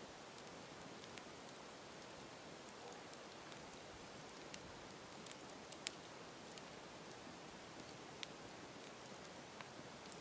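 Campfire burning: a faint, steady hiss with scattered crackles and small pops of burning wood, a few sharper pops a little past halfway.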